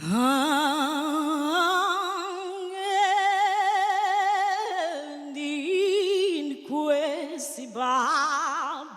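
A solo voice singing unaccompanied: it slides up into a long held note with a wide, fast, tight vibrato, then steps down near the middle and moves through a few shorter held notes with the same vibrato.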